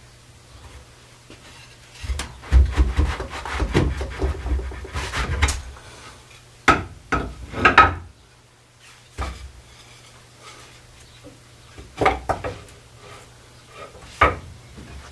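Wooden chair parts knocking and scraping together as they are handled: a few seconds of rattling clatter and rubbing, then several separate sharp knocks.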